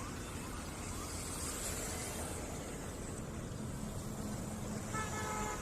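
Steady running noise of a moving car: engine and road rumble, with a brief pitched tone about five seconds in.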